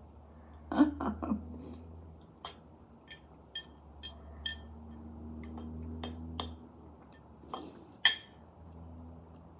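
Eating utensil clinking and scraping against a dish: a scatter of sharp clinks, the loudest about a second in and near the end.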